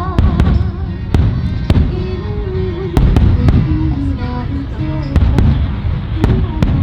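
Fireworks display: shells bursting in an uneven run of loud, sharp bangs, sometimes two or three within half a second, with music with a melody playing alongside.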